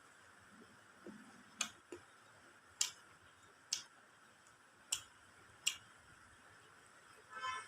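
Eating sounds: a string of sharp, short clicks about once a second as chicken biryani is eaten. A brief pitched tone sounds near the end.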